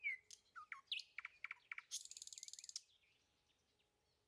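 Birdsong: a quick run of short falling chirps, then a fast buzzy trill about two seconds in, then only faint calls.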